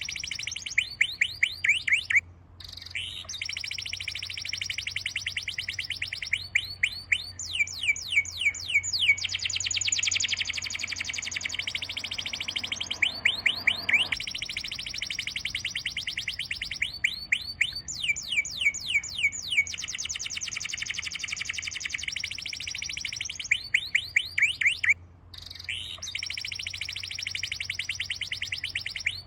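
Bird singing in long, fast trills of high, rapidly repeated sweeping chirps, with two short breaks.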